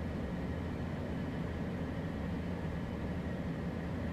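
Steady cockpit noise of a Beechcraft Premier I business jet in climb: an even rush of airflow over a low drone from its two Williams FJ44 turbofans, with a faint high steady tone.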